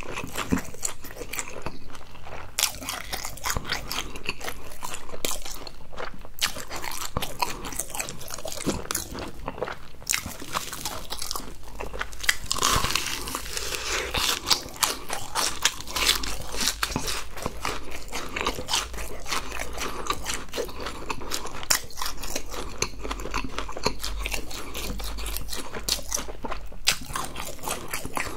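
Close-miked chewing and crunching of crisp-crusted fried food, including a fried cheese ball that is bitten into and chewed. Dense, irregular small crackles of the crust run throughout.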